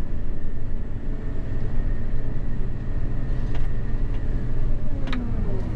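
Gleaner S98 combine running steadily in a corn field, heard from inside the cab as a constant low machine drone.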